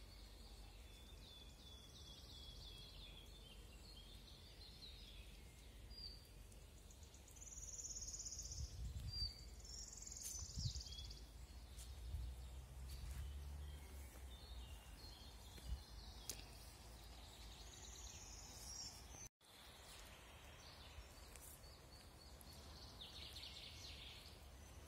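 Small songbirds chirping and trilling faintly in woodland, several short calls scattered throughout, over a steady low rumble.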